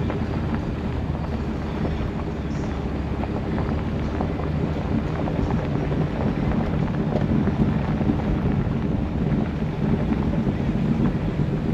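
Jeep on the move: a steady low engine rumble mixed with tyre and road noise, with wind noise on the microphone.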